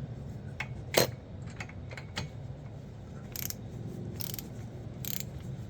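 Ratchet wrench tightening a nut: a sharp metal click about a second in and a few lighter clicks, then short ratcheting strokes about once a second.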